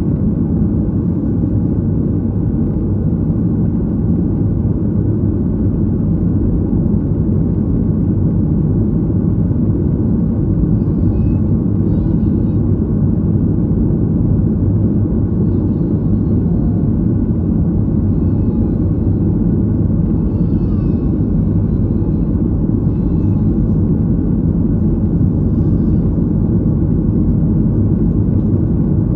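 Airliner cabin noise heard from a window seat: a steady, loud low rumble of the engines and air rushing past the fuselage. Faint voices are heard now and then in the middle.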